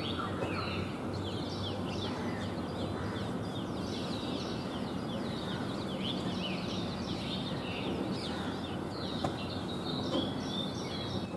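Small birds chirping in a busy chorus of many short, quick calls over a steady low background hum.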